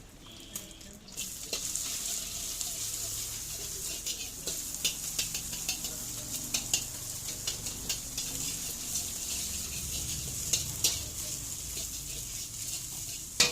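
Food frying and sizzling in a hot pan while being stirred, with frequent sharp clicks of a metal utensil against the pan. The sizzle starts about a second in.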